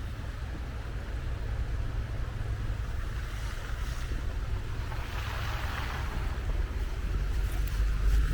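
Wind rumbling on the camera's microphone, a steady low buffeting, with a brief swell of hiss about five seconds in.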